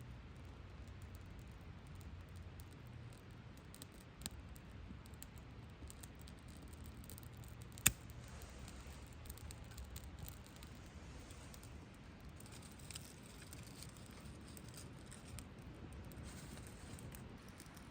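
Small campfire of birch bark and twigs crackling faintly, with scattered small pops. A sharper pop comes about four seconds in and the loudest one about eight seconds in.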